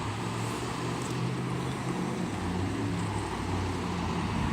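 Steady motor-vehicle engine hum with road traffic noise.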